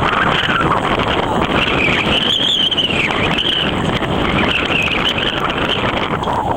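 Blizzard wind buffeting the camcorder microphone: a loud, steady rumble with a whistle that rises and falls.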